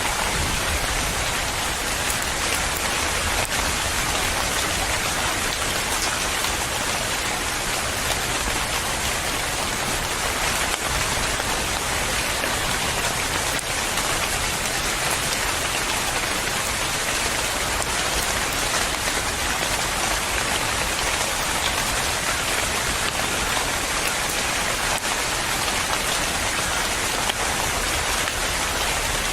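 Steady, even rainfall pattering on a surface, with no thunder or changes.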